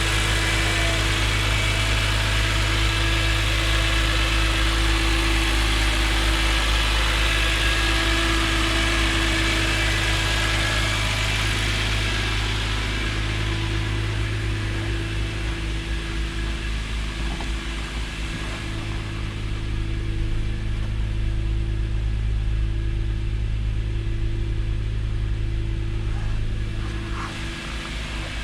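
BMW S54 3.2-litre straight-six in a 2006 Z4 M idling steadily after a cold start. A high hiss over the engine note fades away about halfway through.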